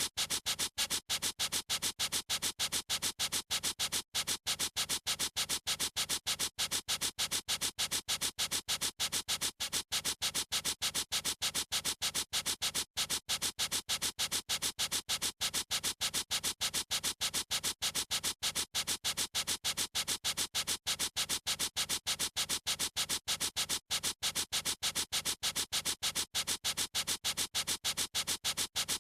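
Pen-type writing tool scribbling on paper: a fast, even back-and-forth scratching, several strokes a second, repeated without a break.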